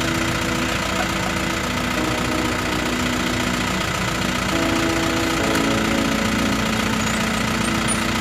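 Motorcycle engine running steadily, its pitch stepping up or down a few times as the revs change, over a steady rushing hiss.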